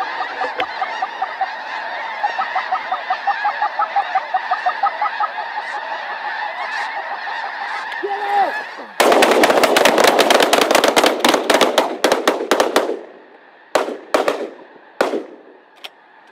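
A large flock of snow geese honking continuously overhead, then about nine seconds in a volley of shotgun fire breaks out, many shots in quick succession for about four seconds, followed by a few scattered shots as the hunters empty their guns.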